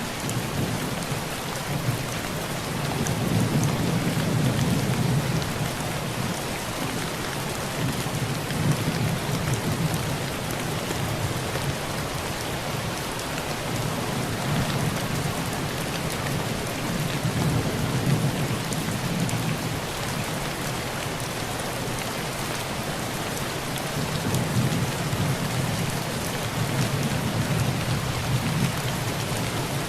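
Heavy rain pouring steadily on a tin roof, with low rolls of distant thunder swelling and fading about four times.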